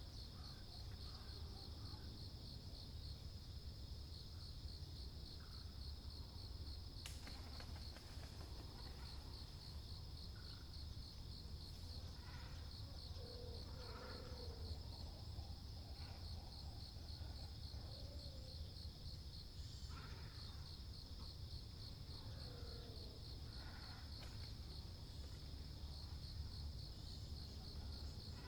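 A steady, fast-pulsing insect trill with scattered short, guttural calls of waterbirds, great cormorants and herons, over a low steady rumble.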